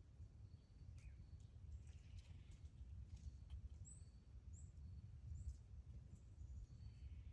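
Near silence with a low steady rumble, scattered faint ticks, and three short, high small-bird chirps near the middle.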